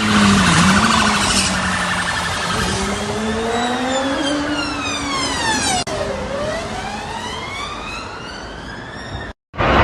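Emergency vehicle siren wailing in slow rising and falling sweeps over road noise. It cuts off abruptly near the end, and a siren with quicker up-and-down yelps starts.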